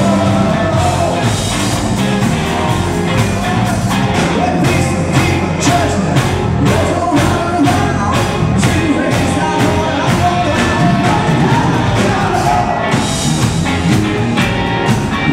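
Rock band playing a song with a sung lead vocal over a steady drumbeat.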